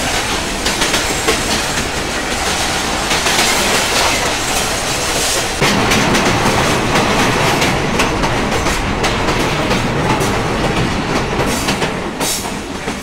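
Passenger train in motion heard from on board: a steady rumble with wheels clacking over the rail joints, getting louder about six seconds in.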